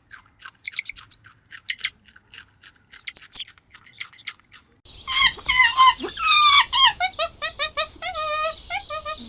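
Animal calls: rapid, very high short chirps and squeaks for the first few seconds, then from about five seconds in a quick run of repeated pitched calls, each wavering in pitch, over a faint low hum.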